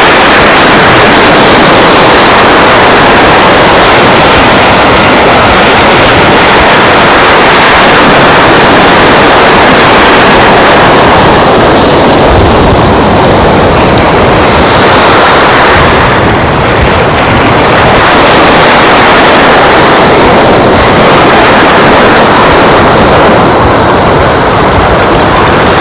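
Loud, steady rushing of breaking surf mixed with wind blowing on the microphone, with low rumbling gusts.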